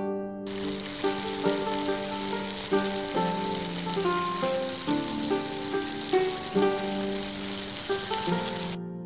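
Hot oil sizzling around a bhatura (puffed fried bread) deep-frying in a wok: a dense, steady hiss that starts about half a second in and cuts off suddenly near the end, with plucked-string background music underneath.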